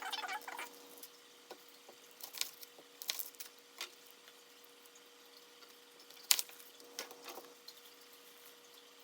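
Scattered knocks and clicks of vegetables being cut and handled on a cutting board, irregular, with one sharper knock about six seconds in, over a faint steady hum.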